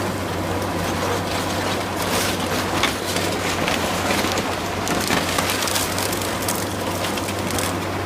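Building demolition: a heavy machine's engine running steadily while wooden building debris cracks, splinters and crushes in repeated sharp snaps.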